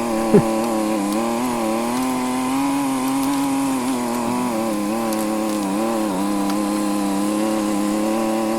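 Vehicle engine running steadily under load in low gear while towing a boat trailer uphill, its pitch wavering slightly. A brief loud falling tone sounds just after the start.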